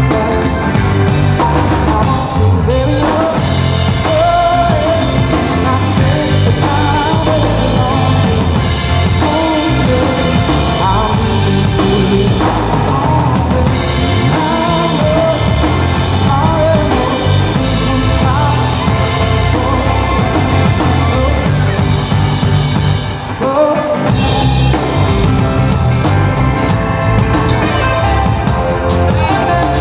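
Live band playing rock music at full volume, with drum kit, bass and a wavering lead melody line, and a brief break about 23 seconds in.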